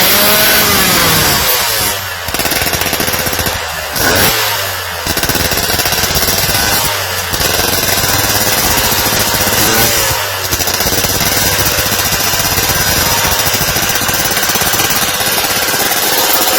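Yamaha JR120's single-cylinder two-stroke motorcycle engine being revved, its pitch rising and falling, with several brief dips where the throttle closes.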